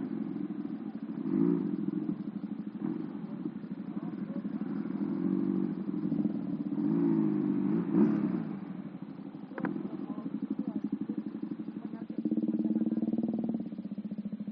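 Motorcycle engine, a two-cylinder swapped into a Honda Astrea Prima underbone, running while ridden, its revs rising and falling with the throttle, with a louder stretch near the end.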